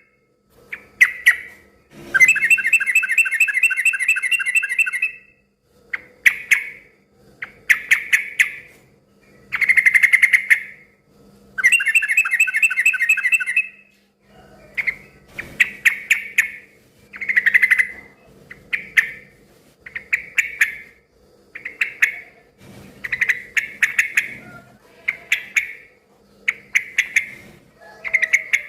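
Yellow-vented bulbul (trucukan) giving loud, rapid chattering calls in bouts: two long rattling runs of about three seconds each in the first half, then short chattering phrases repeating every second or two.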